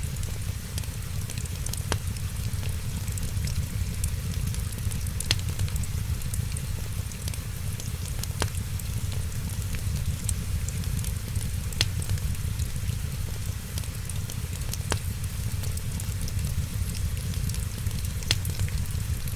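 Wood fire crackling and hissing over a steady low rumble, with a sharp pop every few seconds.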